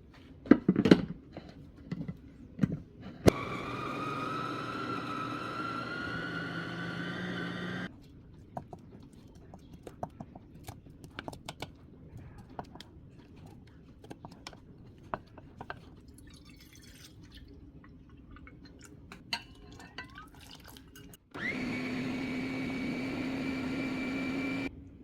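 Water running into a container twice, the first time with a tone that rises in pitch as the vessel fills, with light clinks and knocks of kitchenware in between.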